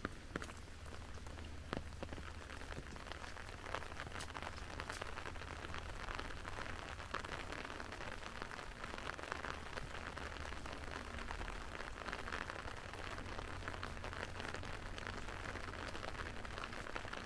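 Steady rain falling, a continuous hiss with scattered sharp drop ticks, more of them in the first few seconds.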